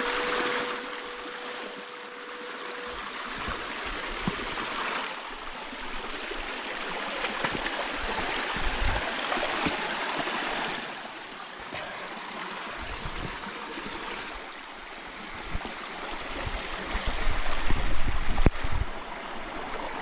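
Creek water running and splashing over a small waterfall: a continuous rushing hiss that swells and eases every few seconds. A steady tone sounds for the first three seconds or so, and near the end heavier low thumps and buffeting make it loudest.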